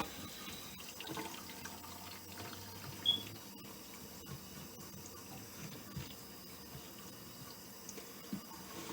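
Tap water running into a bathroom sink and draining through a freshly reassembled drain pipe, run to test the joints for leaks. The flow is faint and steady, with a few light clicks and a brief high squeak about three seconds in.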